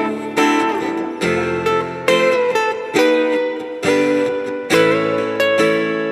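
Guitar strumming chords, with a fresh chord struck roughly once a second and ringing on between strokes, in an instrumental passage with no voice.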